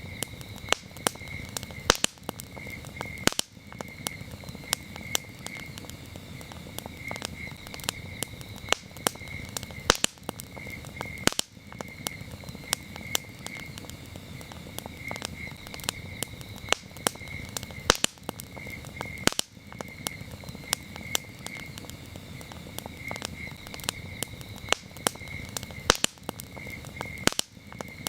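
Campfire crackling, with frequent sharp pops and snaps of varying loudness over a steady low noise from the burning wood. Crickets chirp throughout in short repeated pulses.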